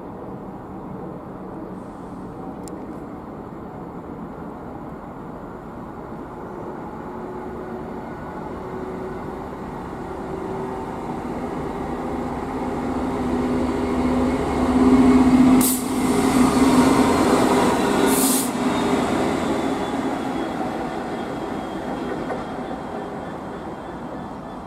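A freight train passing through a station at speed: its rumble builds steadily, peaks with two brief sharp bursts of noise past the middle, and then fades away.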